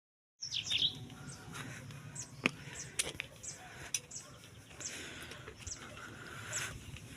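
Small birds chirping outdoors, many short high chirps repeating one after another, starting abruptly about half a second in, with a few sharp clicks among them.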